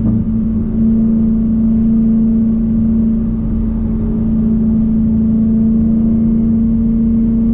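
Dodge Challenger Hellcat's supercharged V8 running at a steady pace, heard from inside the cabin as one loud, even drone.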